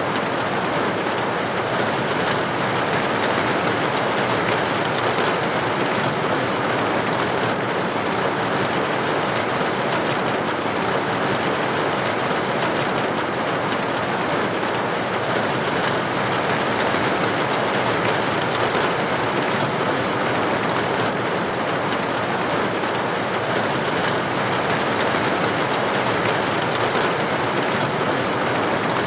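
Steady rain pattering against a window pane, an even hiss with no single drops or other events standing out.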